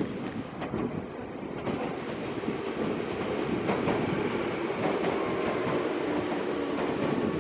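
Meitetsu 6000 series electric train running into a station: a steady rumble of wheels on rail with a faint whine, slowly getting a little louder.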